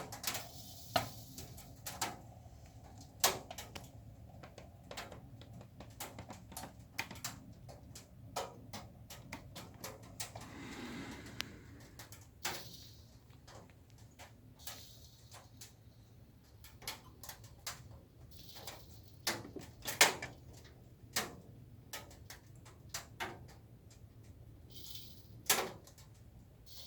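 Irregular clicks and knocks with a low steady hum underneath; the loudest knock comes about twenty seconds in, and a soft hiss rises briefly twice.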